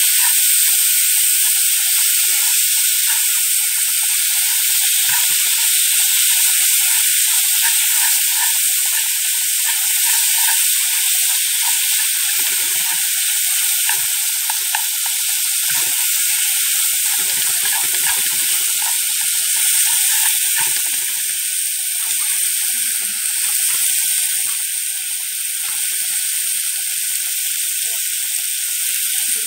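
Duck tongues frying in hot oil in a nonstick pan: a loud, steady sizzle as they are stirred, with faint scattered knocks from about halfway on.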